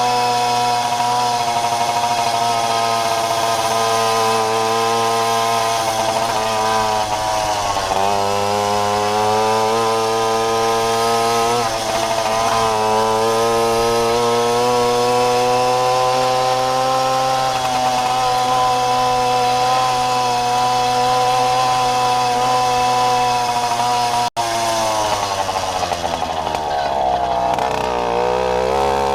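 Jawa Babetta moped's 50 cc two-stroke single-cylinder engine running under load, its pitch drifting up and down with the throttle. Near the end there is a sudden brief break, after which the revs fall and then climb again.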